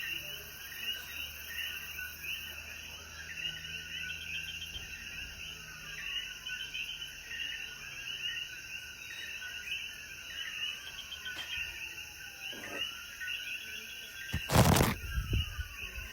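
Chorus of common coquí frogs calling, many short chirps overlapping, over a steady high hiss of insects. Near the end a loud, brief burst of noise with a low thump cuts through.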